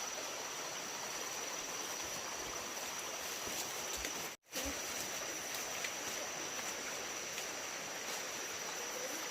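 Steady rushing of running water, with a constant high insect drone over it; the sound drops out for a moment about four and a half seconds in.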